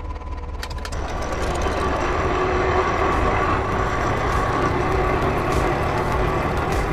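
A machine running steadily, with a few sharp clicks under a second in. It grows louder about a second in and then holds at a constant level.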